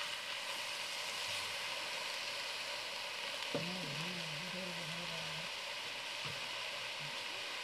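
Onions, banana-stem pith and masala paste sizzling steadily in the pan beneath a layer of raw chicken and tomatoes. A short wavering hum of a voice comes in about halfway through.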